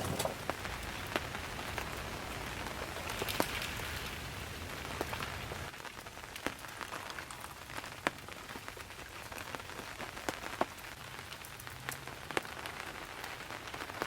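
Steady rain falling, with scattered sharp taps of individual drops. A low rumble underneath fades about halfway through.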